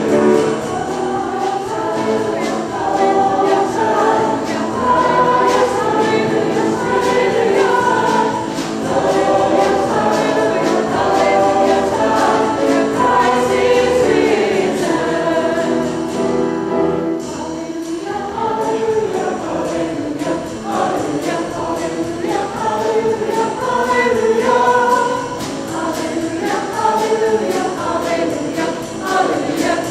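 A choir singing a sacred piece, many voices in parts together, with a brief softer moment a little past halfway.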